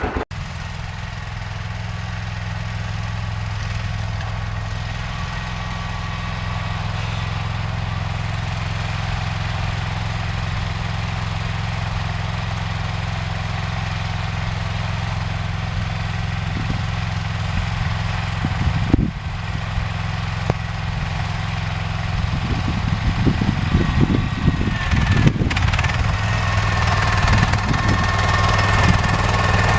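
John Deere 316 garden tractor engine running steadily under way, with irregular clatter from about two-thirds of the way in and a steady higher whine joining near the end.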